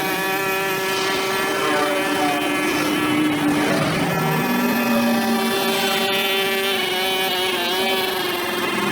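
A small two-stroke engine running steadily, its pitch shifting up and down as the throttle changes, typical of a brush cutter cutting grass.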